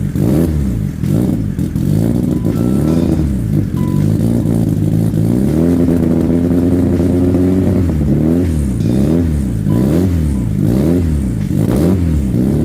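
Saab B234R turbocharged 2.3-litre inline-four being revved up and down repeatedly. It is held at high revs for about two seconds midway, then blipped quickly several times near the end.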